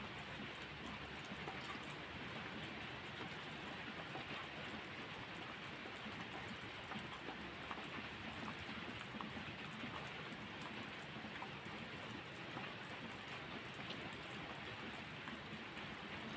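Steady rainfall: a dense, even hiss with small scattered drop ticks.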